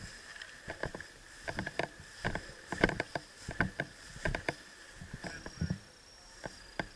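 Footsteps of a person walking, an irregular step or scuff about every half second, over a faint steady hiss.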